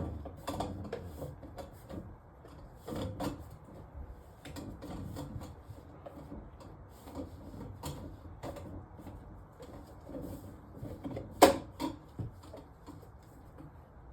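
Irregular knocks, clicks and scraping as kitchen sink drain pipes and parts are handled under the sink cabinet, with one sharper, louder knock about three quarters of the way through.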